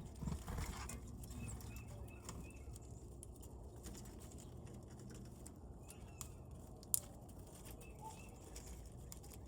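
Wild birds at a feeder giving faint, short, high chirps every so often over a low background rumble. A brief rustle comes about half a second in, and a single sharp click about seven seconds in is the loudest sound.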